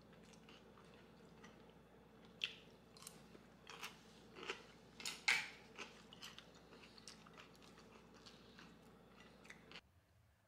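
Close-up eating sounds: crunchy bites and chewing of homemade pizza and cubed radish kimchi, a cluster of sharp crunches in the middle with the loudest bite a little past halfway, fading to quieter chewing and stopping shortly before the end.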